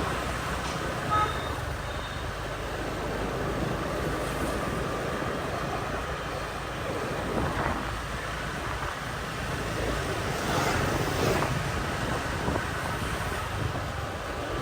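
City street traffic heard from a moving motorbike, with motorbike engines running and wind rumbling on the microphone; a short beep about a second in.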